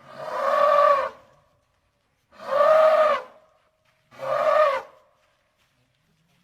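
An animal calls three times, each call about a second long with a pitch that rises and then falls, separated by short silences.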